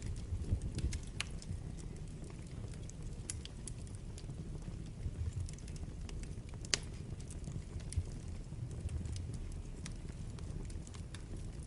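Wood fire burning in a fireplace: a steady low rumble of flames with scattered crackles and pops from the burning logs, the sharpest pop about two-thirds of the way in.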